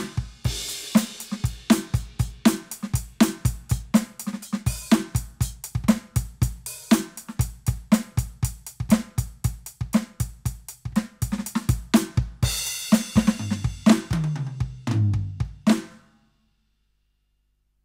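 Roland TD-17KVX electronic drum kit played through its module: a steady groove of kick, snare and hi-hat, then a crash and a fill down the toms, falling in pitch. The playing cuts off suddenly about 16 seconds in.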